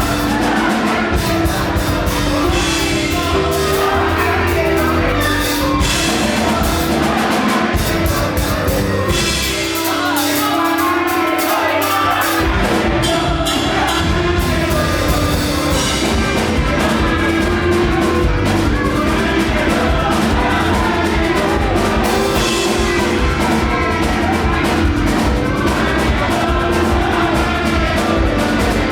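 Live gospel praise-break music: a full band with drum kit and bass playing a fast groove under singing. The bass and drums drop out for a few seconds about ten seconds in, then the band comes back in.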